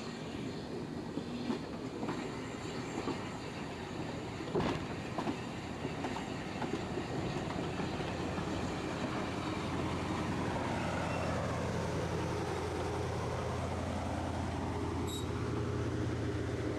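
Railway carriages rolling past on jointed track, wheels clicking and rumbling, with a low steady drone building from about ten seconds in and a brief high squeal near the end.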